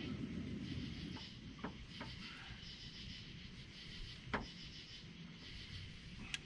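Night insects chirping in a steady chorus, with a few faint clicks and knocks, the sharpest about four seconds in.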